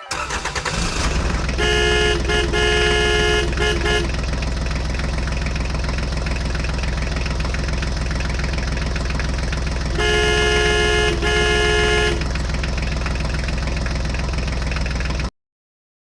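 Vehicle engine running steadily, with a multi-tone horn honking in several short blasts about two seconds in and again in two blasts about ten seconds in; the engine sound cuts off suddenly near the end.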